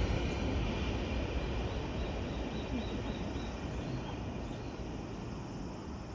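A train running past and receding: a broad rumble that fades steadily away.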